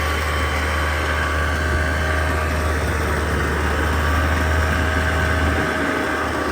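A 1995 Polaris Trail Boss 250's two-stroke engine running steadily while the ATV is ridden, with a constant low rumble underneath.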